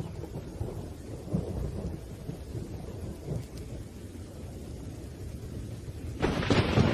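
Thunderstorm with rain: low thunder rumbling on steadily, then a sudden louder thunderclap crashing about six seconds in.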